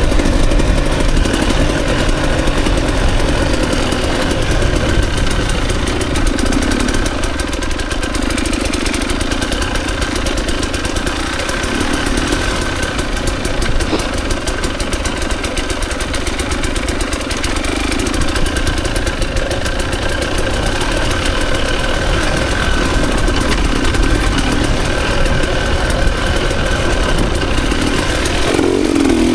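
Dirt bike engine running steadily with small rises and falls in pitch, over a constant low rumble, with a change in the engine note near the end.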